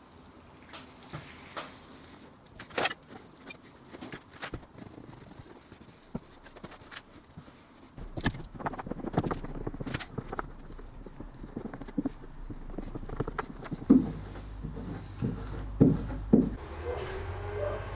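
Irregular knocks and taps, as of objects being handled and set down. About halfway through they get busier and a low steady hum starts, which grows louder near the end, and a few heavier thumps stand out.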